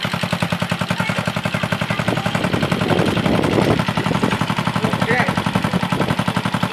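Small single-cylinder underbone motorcycle engine idling loudly just after being kick-started, its exhaust giving a rapid, even popping beat.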